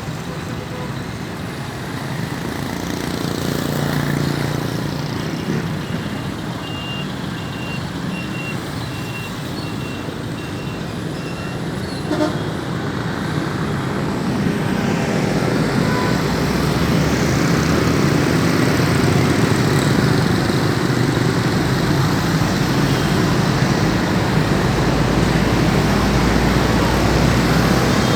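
Motor vehicle running with road and traffic noise, growing louder about halfway through. A faint steady beeping sounds for several seconds near the start.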